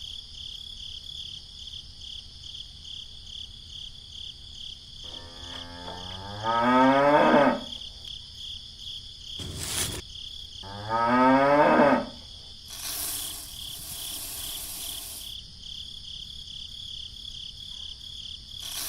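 A cow mooing twice, two long calls rising in pitch, over steady chirping of crickets. A single sharp click falls between the moos, and a brief rush of hiss follows the second one.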